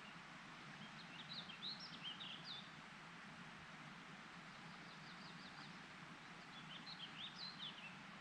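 A songbird singing faintly: two short phrases of quick rising and falling notes, one about a second in and one near the end, with a brief run of quick notes between them. A steady faint outdoor hiss sits beneath it.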